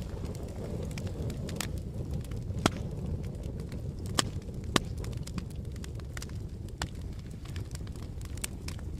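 Campfire crackling: a steady low rush of burning wood with frequent small snaps and a few sharper, louder pops in the middle.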